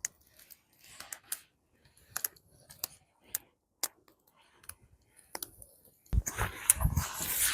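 Campfire wood crackling: sparse, sharp pops at irregular intervals. About six seconds in, a sudden louder rushing noise with a low rumble sets in and continues.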